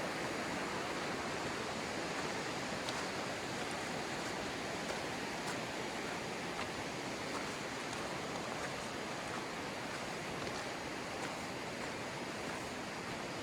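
A river rushing steadily over rocks, with a few faint clicks on top.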